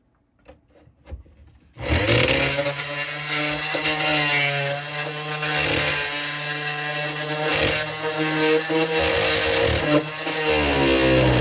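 A Harbor Freight oscillating multi-tool starts up about two seconds in, after a few faint clicks, and keeps running with a steady buzz as its blade cuts into finished wood.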